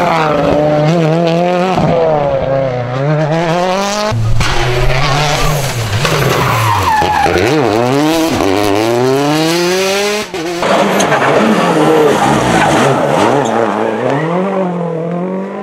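Rally cars' engines revving hard, pitch climbing and dropping again and again through gear changes and lifts, with tyres skidding on the road. The sound changes abruptly about 4 seconds in and again near 10 seconds, as one car gives way to the next.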